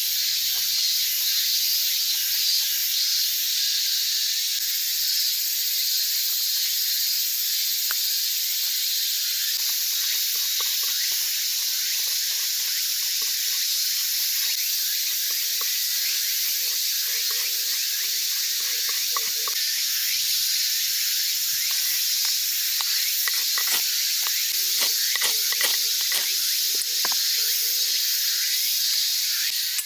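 Small wood fire burning in a compact mini fire pit: a steady hiss with many small crackles and pops, which come thicker in the second half.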